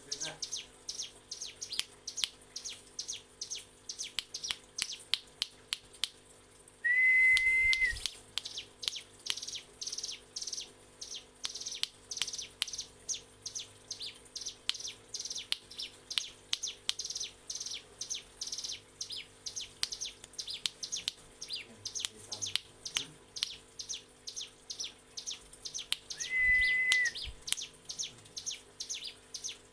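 Ciblek gunung (hill prinia) singing a long unbroken 'ngebren' chatter of short, high, sharp notes, about three a second. Twice a louder steady whistle-like tone lasts about a second.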